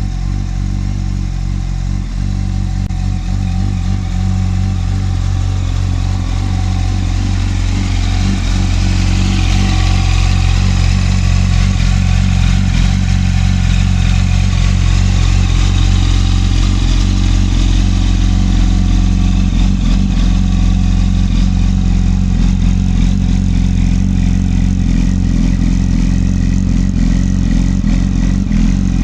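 2007 Yamaha YZF-R1's inline-four engine running through a Leo Vince SBK aftermarket exhaust at a steady, low idle. It gets a little louder about seven seconds in and then holds even.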